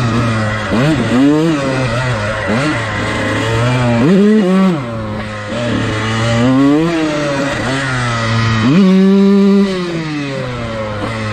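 Dirt bike engine revving up and down over and over as the throttle is worked, with a long high-rev pull near the end that then drops back.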